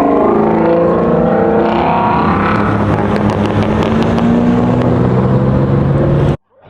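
Loud vehicle engine running, its pitch shifting near the start and then settling into a steady drone, with a few sharp ticks in the middle. It cuts off abruptly near the end.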